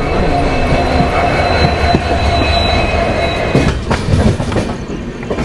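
Jan Shatabdi Express passenger train running on the rails, with a steady rumble and clatter of the wheels. A thin high squeal from the wheels rides over it and dies away after about three and a half seconds.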